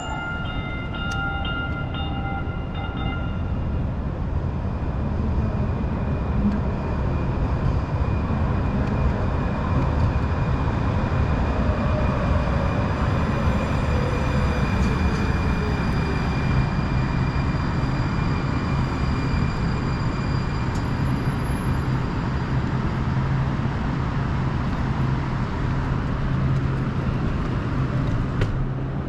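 Steady vehicle rumble of a city street, with a constant low hum and a faint tone that falls in pitch about halfway through.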